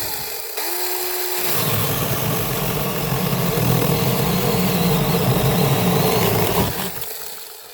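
Electric mini chainsaw running free with a steady whine, then cutting through a thick log from about a second and a half in, the chain chewing the wood with a rough, gritty sound until the motor winds down near the end.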